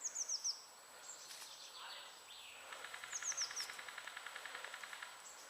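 Wild birds singing: a quick run of four high, falling chirps right at the start, repeated about three seconds in, with a rapid, even trill through the middle.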